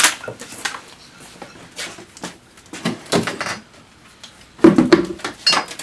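Sporadic knocks and metal clanks of a steel car jack and jack stands being unpacked and handled, with a sharp hit at the start and a louder clatter near the end.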